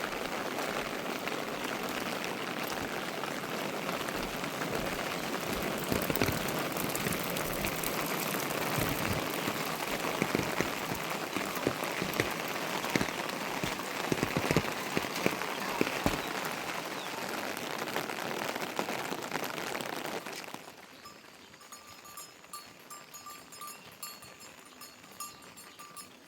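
Heavy rain falling and pattering on a surface, with many separate drop hits through the steady hiss. About twenty seconds in, it cuts off suddenly to a much quieter scene with a faint repeating high tone.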